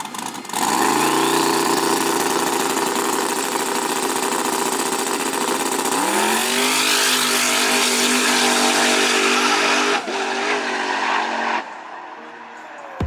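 A car engine at full throttle starts suddenly, its pitch climbing and then holding. A second climb comes about six seconds in, and the sound cuts off sharply shortly before the end.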